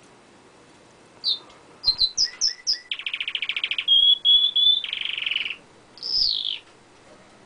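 Domestic canary singing close up: after a short pause, a song of quick high chirps, fast rattling trills and a few clear whistled notes, ending with one long falling note near the end.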